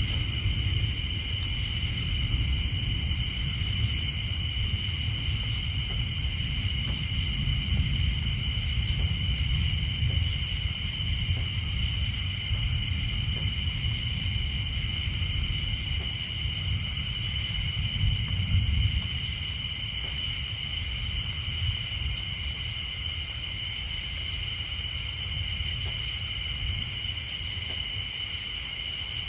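Steady night chorus of tree frogs and insects, with a high-pitched call that pulses on and off about every two seconds. Under it runs a low rumble of distant thunder that eases off about two-thirds of the way through.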